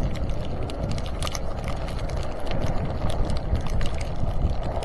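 Fat bicycle tires rolling over plowed, icy snow, with a steady low wind rumble on the microphone and many scattered sharp clicks and crackles.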